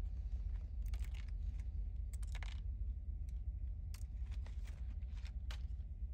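A few light clicks and taps of small plastic toy parts being handled, over a steady low hum.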